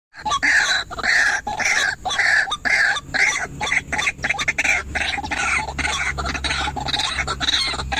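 White-breasted waterhen (ruak-ruak) calling: a loud, harsh call repeated in a steady rhythm of about two calls a second.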